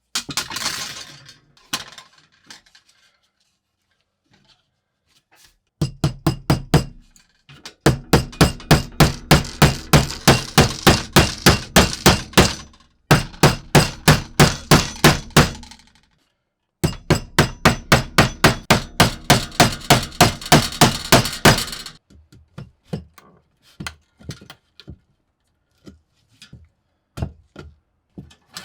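A hammer striking metal in runs of quick, even blows, about three or four a second, with a ringing note under them; lighter, scattered taps follow near the end.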